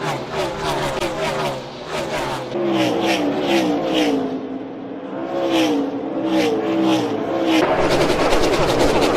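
NASCAR Gen 6 stock car's V8 engine running at racing speed, its pitch rising and falling repeatedly as the throttle and revs change. About three-quarters of the way through, the sound turns louder and denser.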